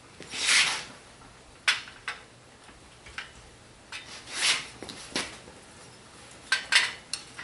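Small pieces of steel angle iron being handled and fitted together: two longer metal scrapes and several sharp clinks, the sharpest cluster near the end.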